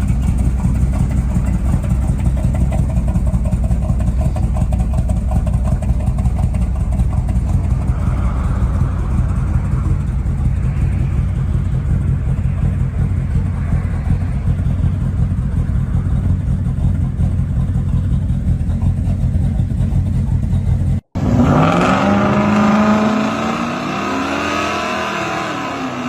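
Muscle car engine running at a steady, heavy idle rumble. About 21 seconds in the sound cuts, and an engine revs up with a sharply rising pitch, then holds a steady note.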